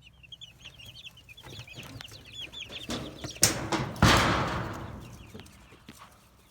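Young chickens peeping, a quick run of short high chirps. A little past halfway a sharp knock, then a loud rush of noise that fades over a second or so.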